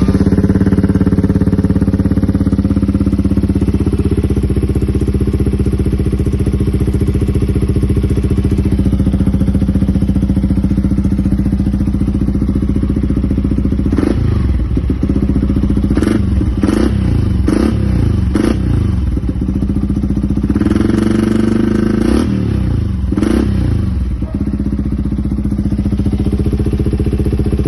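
An engine idling steadily, then revved briefly several times in the second half, each rev rising and falling in pitch.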